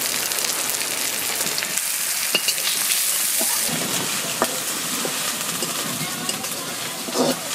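Onions frying in oil in a steel kadai: a steady sizzle, louder for the first few seconds as garlic paste goes into the hot oil, with a few light clicks.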